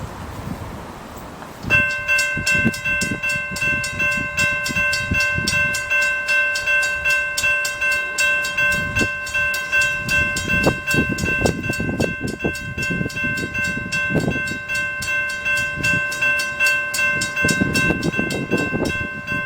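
Train horn held in one long, steady chord, starting about two seconds in and sounding continuously, over the low rumble of a passing train.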